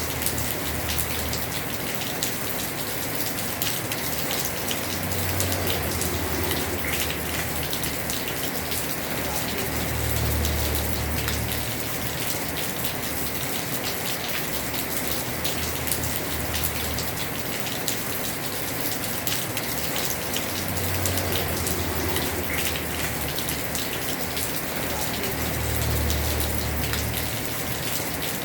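Heavy rain falling on a house roof: a steady hiss thick with the ticks of single drops, with a low rumble that swells and fades about every five seconds.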